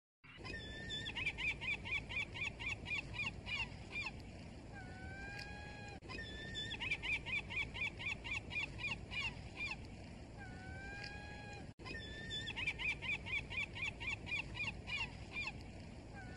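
Gull calling: a rapid run of short, yelping notes, about five a second, followed by two or three longer drawn-out calls. The same call sequence plays three times in a row, over a low, steady background noise.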